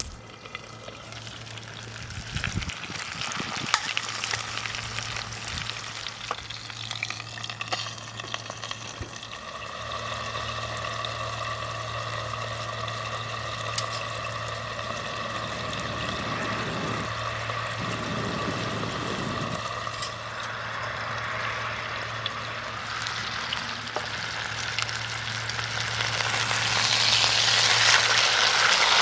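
Chicken steak sizzling in a pan over a campfire, a continuous frying hiss that grows louder near the end.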